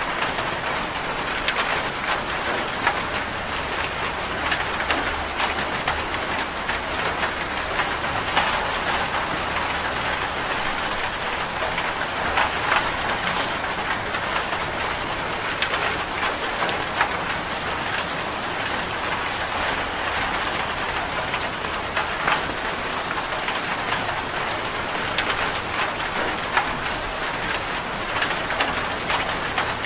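Steady rain falling, a continuous hiss with a dense patter of individual drops hitting a surface.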